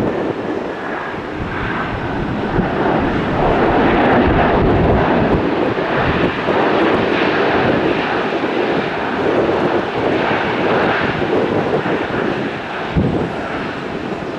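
Jet airliner's engines passing close by, a dense rumble that builds over the first few seconds, is loudest about four to five seconds in, and eases slightly near the end, with a faint high whine at the start.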